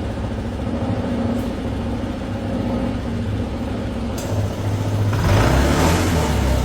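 Honda PCX scooter engine running at idle, then revved up about five seconds in, the sound growing louder and fuller.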